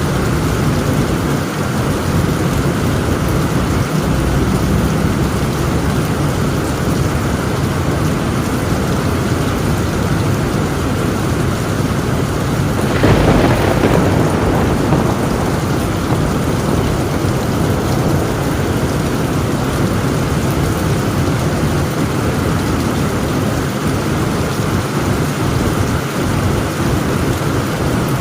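Heavy, steady rain falling on a tin roof, with low rumbling thunder under it and a louder burst of thunder about halfway through.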